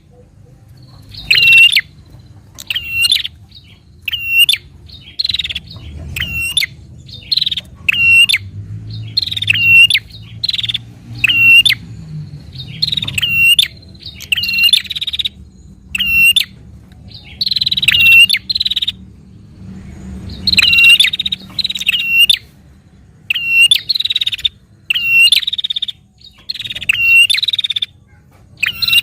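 Prinia (prenjak) calling insistently in agitated, fighting-style (narung) song: loud, sharp, repeated chirping notes, about one burst a second, with short gaps between.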